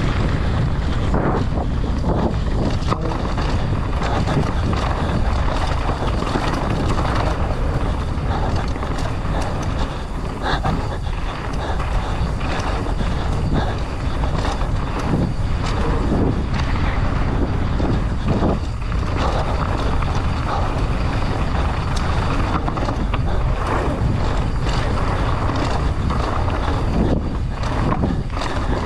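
Mountain bike descending a rough trail at speed: wind rushing over the microphone with a steady low rumble of tyres on dirt and rock, broken by frequent short clatters and knocks from the bike.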